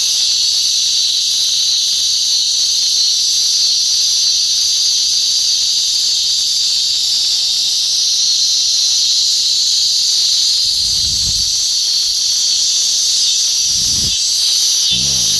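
Cicadas singing in a steady, unbroken high buzz, with a few soft low thumps near the end.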